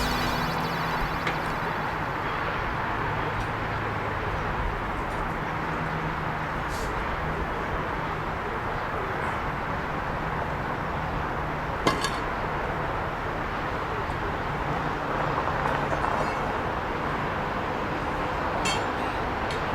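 A machine engine running steadily on a construction site, with faint ticks and one sharp metallic clink about twelve seconds in.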